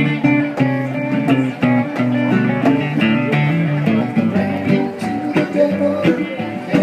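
Live acoustic band playing an instrumental passage: guitar with other plucked strings, over short percussive hits.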